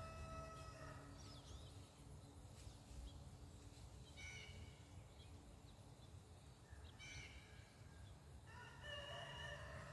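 Faint bird calls over a low steady rumble: a longer call at the start and again near the end, with two short calls in between.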